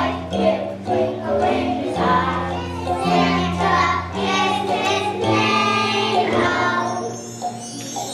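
Young children's choir singing a holiday song over instrumental accompaniment with a steady bass line; the music gets quieter about seven seconds in.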